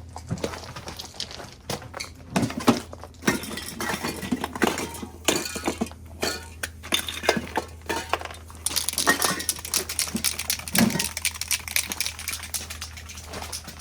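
Metal spray paint cans clinking and clattering against each other in a run of sharp knocks and rattles.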